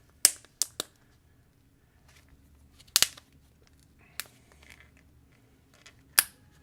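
Slime being handled by hand, giving about half a dozen sharp, irregularly spaced clicks and pops with faint crackling between them. The loudest pops come about three seconds in and near the end.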